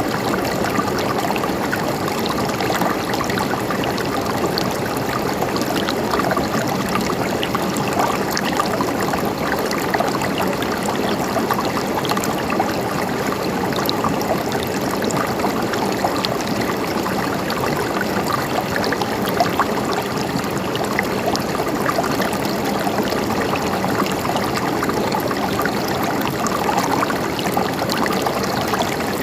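Shallow river flowing steadily, water gurgling and trickling over rocks.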